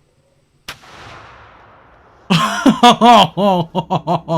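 A cannon going off, fired from inside a larger cannon: a single sharp bang with a rumble trailing off over about a second and a half. About two seconds later, loud excited shouting breaks out and turns into rapid, rhythmic whoops.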